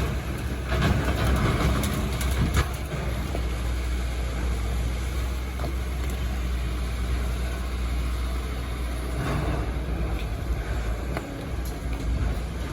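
Hydraulic excavator's diesel engine running steadily, with a louder rough stretch and a few sharp knocks in the first few seconds.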